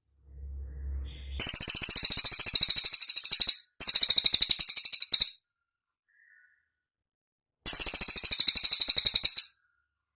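Cililin bird singing: a loud, very high, rapid trill of repeated notes, about ten a second, delivered in three bursts of one and a half to two seconds each, with a faint short lower call between them. A soft low rumble comes before the first burst.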